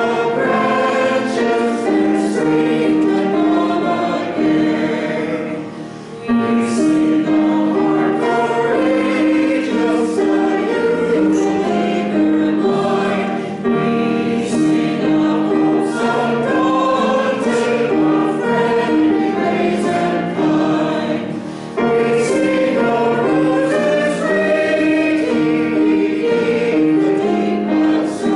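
A choir sings in sustained phrases, with brief breaks about six seconds in and again about twenty-one seconds in.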